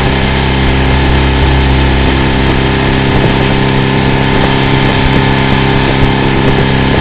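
Motorboat engine running steadily close by, a constant low engine hum with no change in speed.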